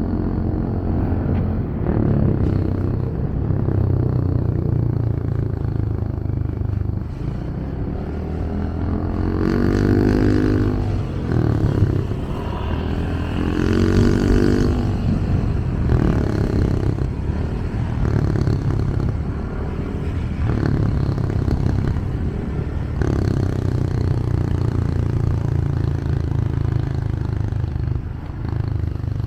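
Motorcycle engine running under way with road and traffic noise. The engine revs up twice, about a third and halfway through.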